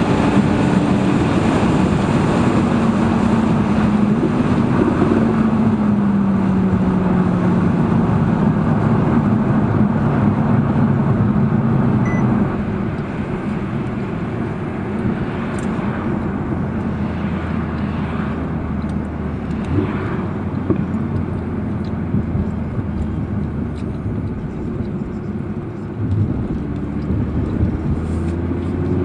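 Audi R8 V10 Plus's 5.2-litre V10 on the move, with steady road and wind noise. The engine note falls slowly over the first ten seconds as the car slows. It then settles into a quieter, lower steady drone and begins to rise again near the end.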